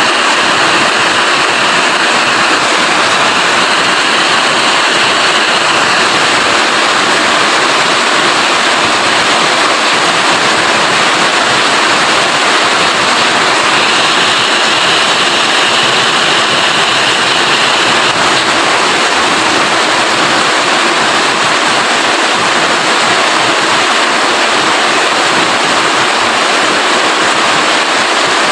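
Steady rain falling, a dense even hiss that holds at a constant loudness throughout.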